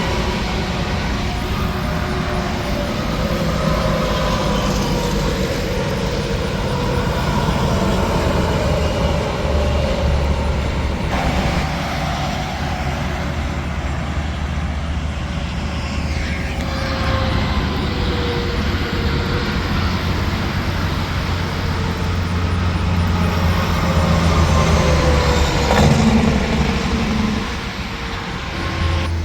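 Interstate traffic, trucks and cars passing one after another on the highway, their engine and tyre tones falling in pitch as each goes by. The loudest pass comes near the end.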